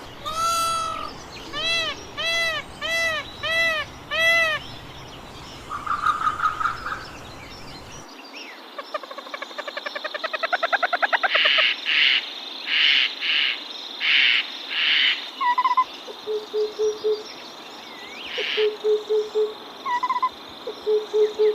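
Several different bird calls in sequence. First comes a run of about six arched, ringing calls and a short trill. After a cut there is a rapid rising series of notes, loud high-pitched bursts, and short low notes repeated in quick groups of about four.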